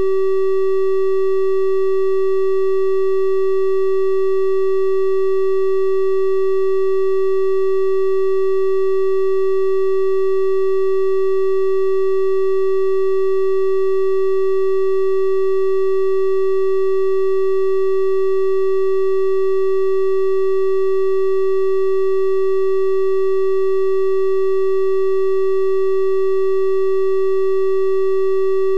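Synthesized 384 Hz triangle-wave tone: one steady, unbroken pitch with faint higher overtones, at constant loudness.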